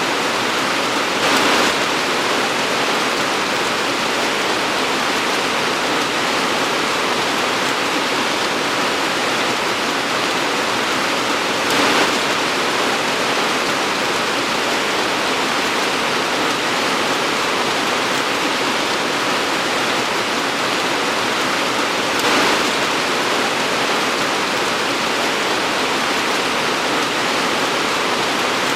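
Torrential rain pouring down in a steady dense hiss, swelling briefly louder three times, about ten seconds apart.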